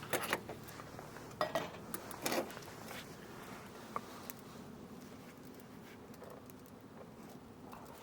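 A few light clicks and clinks over a faint steady background, the sharpest about a second and a half in, just after two seconds, and near four seconds.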